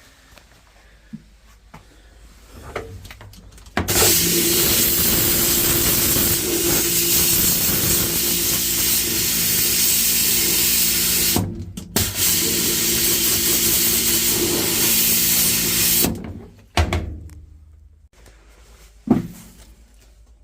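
Pressure washer spraying: a loud, steady hiss of the water jet over the hum of its motor, in two runs of about seven and four seconds with a short break between. It is blasting out debris seized around the spin shaft of a top-loading washing machine's tub. A couple of short knocks follow near the end.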